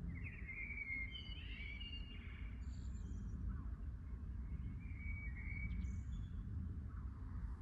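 Birds chirping in short, high, repeated phrases over a steady low rumble of background noise.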